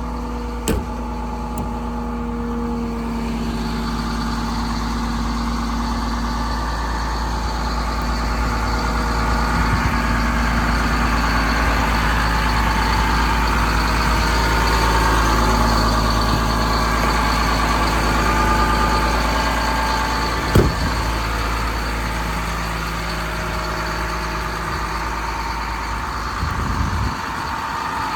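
Caterpillar C7 diesel engine of a Ford F750 truck running steadily, with one sharp knock about twenty seconds in.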